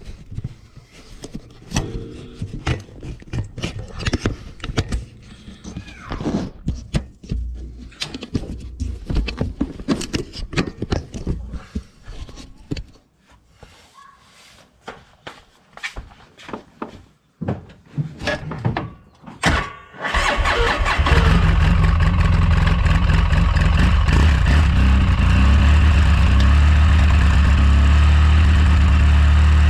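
Scattered clicks and knocks of handling for about the first twenty seconds, then a 2009 Polaris RZR 800 S engine starts and settles into a steady idle.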